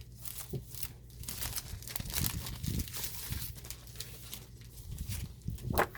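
Plastic wrapping of a scrapbook paper pad crinkling and tearing as it is pulled open by hand, with a louder crackle near the end.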